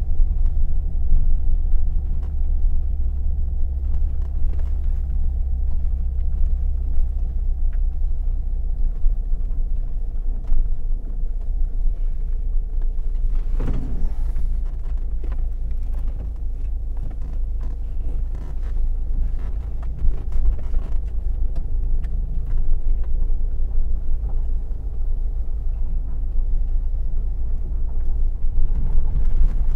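Car cabin noise while driving: a steady low engine and road rumble, easing down a little about nine seconds in.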